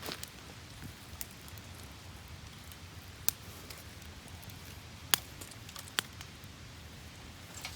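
Wood campfire burning, with a few sharp crackling pops at irregular intervals over a low steady background.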